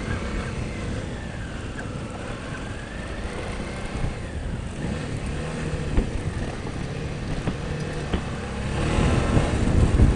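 Motorcycle riding on a rough dirt road: the engine runs steadily under a rush of wind and road noise, with a sharp knock from a bump about six seconds in and rougher, louder going near the end.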